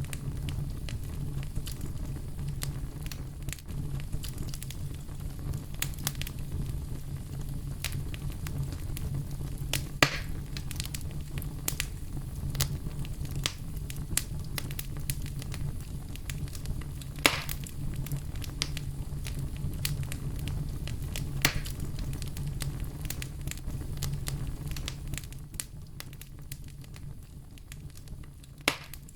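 Firewood burning: a steady low rumble under frequent small crackles, with a few louder pops scattered through. The rumble eases off a little near the end.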